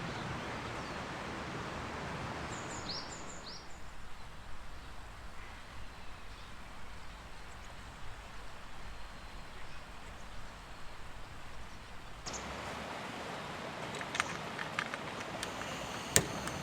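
Outdoor ambience: a steady hiss of background noise with a short run of bird chirps about three seconds in. The background changes abruptly at about twelve seconds, and a few sharp clicks come near the end.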